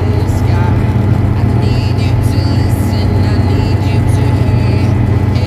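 Steady low engine rumble, loud and unchanging.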